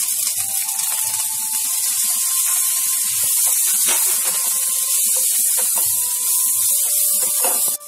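Cauliflower florets sizzling in hot oil in a nonstick kadai, with a spatula scraping and tossing them against the pan in short, repeated strokes.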